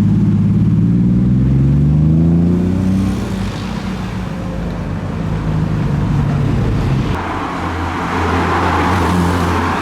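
A car engine accelerating, its pitch rising steadily over the first three seconds, then running lower and steadier. A broader rush of another vehicle passing builds in the last few seconds.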